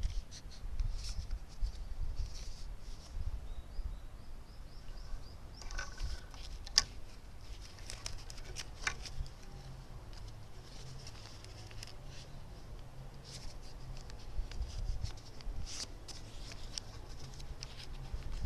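Scattered small clicks and light scraping from hand work, with a couple of sharper clicks about seven and nine seconds in, over a faint low rumble.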